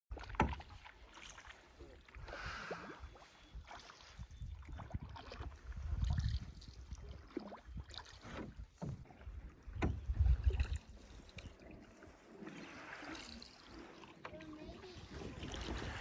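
Canoe being paddled: water noise from the paddle strokes with a few sharp knocks, and gusts of wind rumbling on the microphone, loudest about six and ten seconds in.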